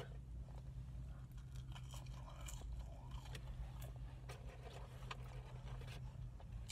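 Faint chewing and crunching of McDonald's French fries, with scattered clicks and rustling from clothing rubbing near the phone's microphone, over a steady low hum.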